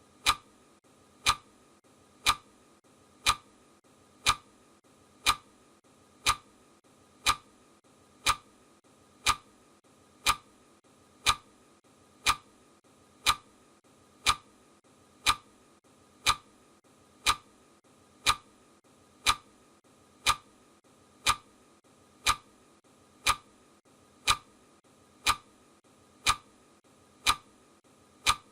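Clock ticking sound effect marking the countdown: one sharp, even tick a second, each tick the same, over a faint steady hiss.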